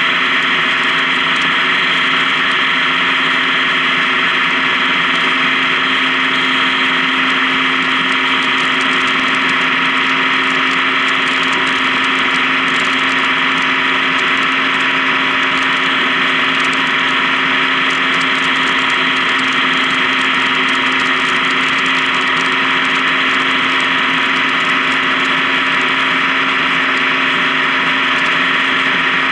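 Honda Gold Wing touring motorcycle running at a steady speed on the highway: an even engine drone mixed with road and wind noise, holding steady.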